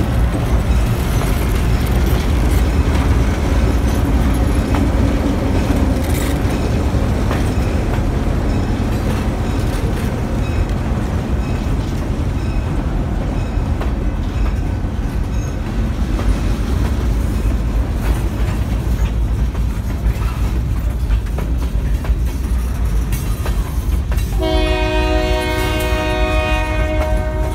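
Diesel-hauled freight train passing close by: the second locomotive's engine followed by freight cars rolling past with a steady heavy rumble and wheels clicking over the rail joints. About three seconds before the end a train horn starts sounding one long chord.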